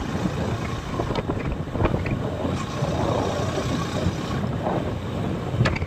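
Motorcycle engine running while riding, with a steady low rumble and wind buffeting the microphone.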